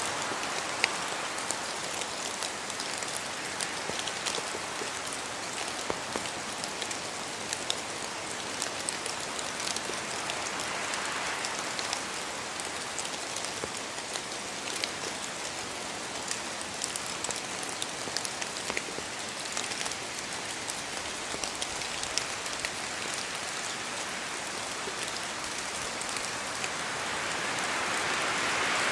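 Steady rain with many separate drops ticking down from the trees of a forest. The hiss swells gently about ten seconds in and again near the end.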